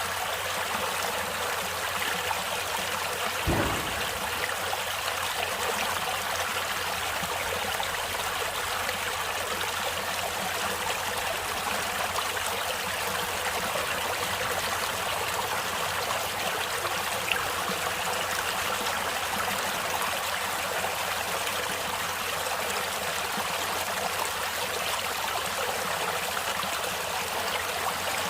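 Stream water flowing and splashing steadily, with a brief low thump about three and a half seconds in.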